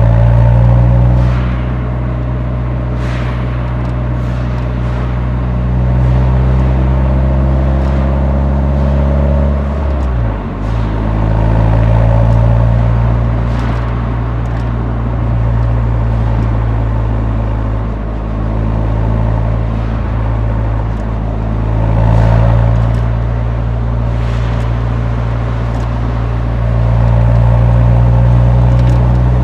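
Exhaust note of a Nissan 180SX's four-cylinder SR20 engine from the muffler while driving: a steady, deep running drone at cruising revs. The note dips briefly about ten seconds in and picks up again.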